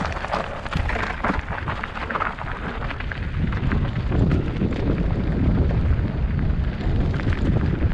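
Wind buffeting the microphone: an uneven low rumble that grows stronger about three seconds in, with rougher, gritty noise in the first few seconds.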